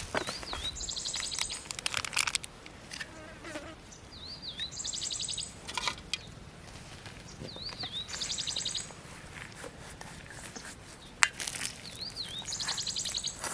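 A bird sings the same short phrase four times, about every four seconds: a wavering whistle followed by a quick rattling trill. Soft scuffs and rustles come in between, and there is one sharp click near the end.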